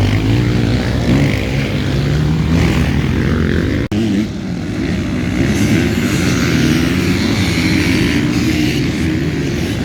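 Several motocross bikes running on the track, their engines rising and falling in pitch as they rev and shift. The sound breaks off sharply about four seconds in, then carries on.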